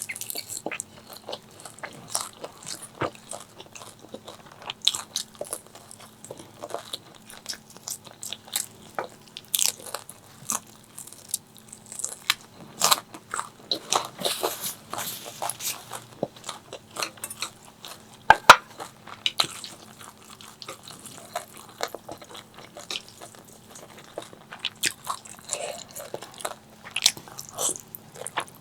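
Close-miked eating sounds: crunchy fried food being bitten and chewed, with many sharp, irregular crunches and the loudest crunch about two-thirds of the way through.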